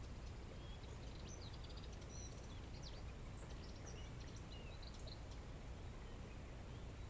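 Faint birdsong: small birds giving short high chirps and twittering notes, clustered in the first five seconds, over a steady low background rumble.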